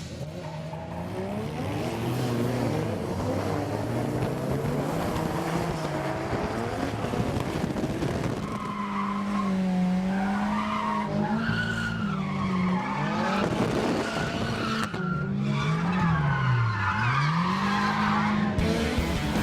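Drift cars sliding around a track, engines revving up and down as the drivers work the throttle, with tyres squealing, most plainly in the second half.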